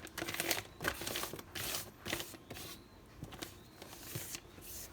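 A chef's knife edge stroked repeatedly across newspaper laid flat, giving a run of short papery rustling swipes: stropping off the burr left by the sharpening stone.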